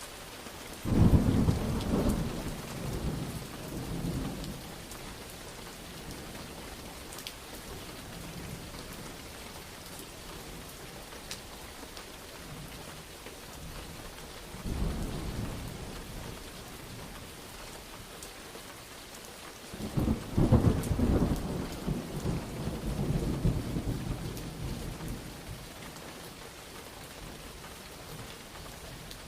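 Steady rain falling, with thunder rumbling three times: a loud deep crack and rumble about a second in, a shorter rumble around fifteen seconds, and a long rolling peal from about twenty seconds that dies away over several seconds.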